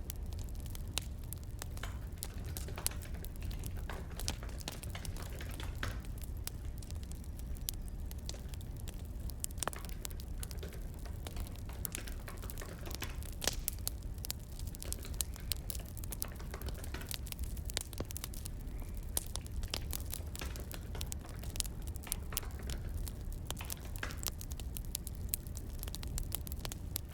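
Burning firewood crackling, with irregular sharp pops over a low steady rumble.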